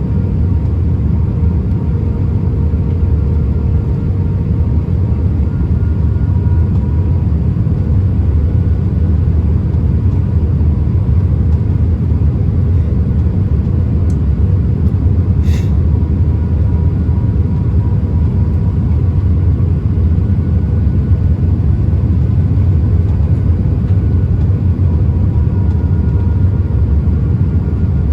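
Airbus A319 cabin noise: a steady low rumble of engines and airflow, with a faint steady whine over it. A single short click about halfway through.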